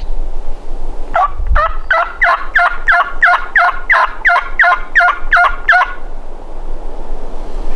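A turkey yelping: a run of about a dozen evenly spaced yelps, about three a second, starting about a second in and stopping near six seconds. Each yelp drops in pitch. A low wind rumble runs underneath.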